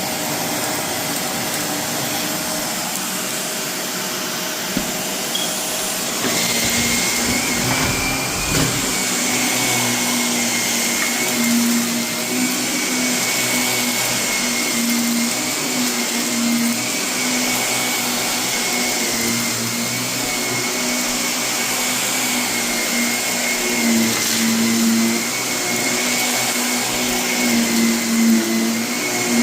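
Vacuum cleaner running steadily over carpet. About six seconds in, its sound shifts and a higher whine joins it.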